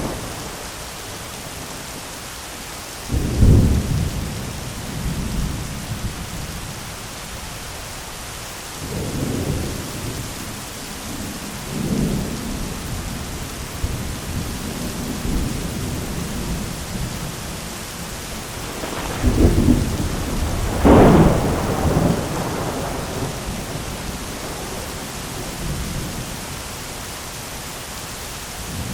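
Heavy rain drumming steadily on an umbrella, with rolls of thunder rumbling in and out: a short one about three seconds in, weaker ones around nine and twelve seconds, and the longest and loudest from about nineteen to twenty-two seconds.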